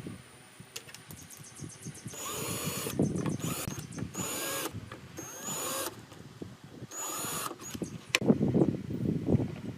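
Power drill run in four short bursts, each about half a second long and with a whine that bends in pitch, as when driving screws into pallet wood. Near the end comes a sharp click, then knocks of wood being handled.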